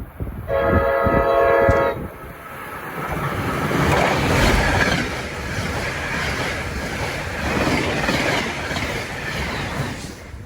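Train horn sounding once, a chord of several notes lasting about a second and a half, followed by the train running past with a rushing rumble and wheel noise on the rails that builds, holds and fades near the end.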